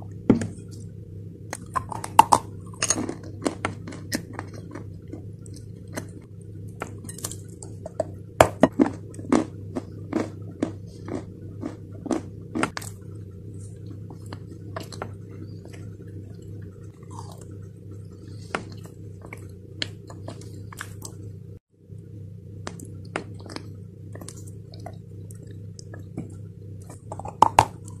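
Close-up chewing and crunching of clay, with many sharp crunches and clicks, over a steady low hum.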